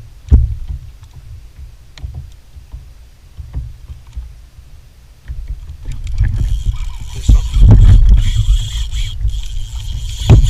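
Sounds of a fishing kayak out on the water: wind rumbling on the microphone with a few hard knocks. From about six seconds in, a louder rush of water and wind takes over.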